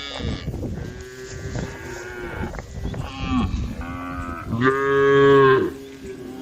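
Several cows in a herd mooing over one another, one call after another. The loudest is a long moo of about a second, starting about four and a half seconds in.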